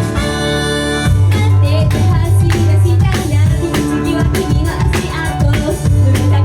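Upbeat idol-pop song performed live, loud, with guitar and drums. A held chord breaks about a second in into the full driving beat, and a singing voice comes in over it.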